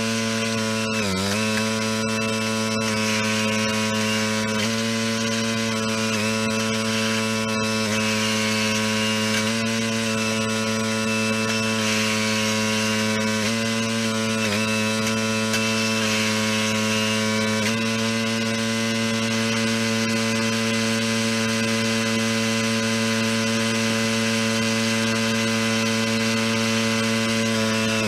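Small gas engine of a log splitter running steadily at speed. Its pitch dips briefly three times, about a second in, midway and a few seconds later, as it takes load.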